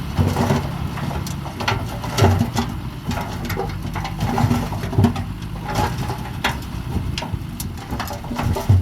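Bulldozer at work: its diesel engine runs steadily at first, then gives way under a string of irregular clanks and crunches over a low rumble.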